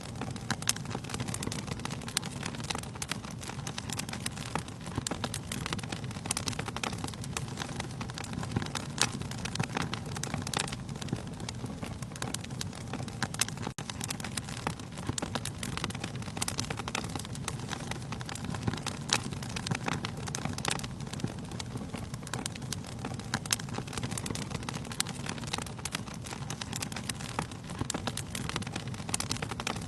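Wood fire burning in a fireplace: a steady low rumble of flames with frequent sharp crackles and pops from the logs, scattered irregularly.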